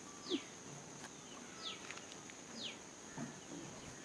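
A bird repeating a short falling call every second or so, over a steady high-pitched insect drone.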